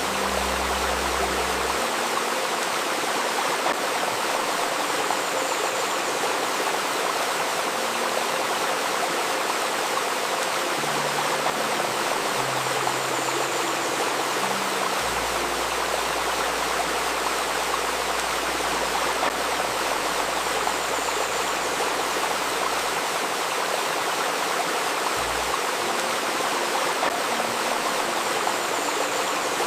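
Steady rushing and babbling of a flowing river stream. Soft low sustained tones lie underneath, shifting pitch every few seconds, with a faint steady tone near 528 Hz layered in.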